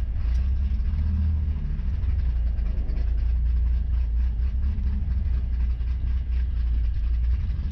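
Car engine idling: a steady low rumble with no revving.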